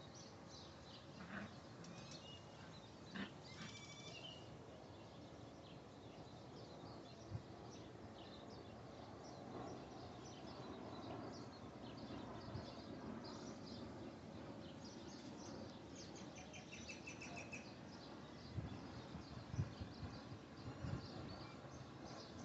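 Faint outdoor ambience with scattered high bird chirps and a short buzzy trill a little past the middle, and a few soft thumps near the end.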